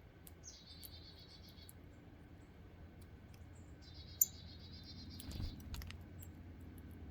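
A wild bird at a feeder giving a trilled call twice, each about a second long, over sharp ticks and clicks, with a soft low thump about five seconds in.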